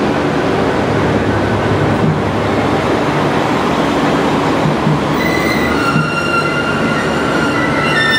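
Yufuin no Mori diesel railcar train rolling slowly past close by, a steady rumble of wheels and engines. A high squeal joins about five seconds in.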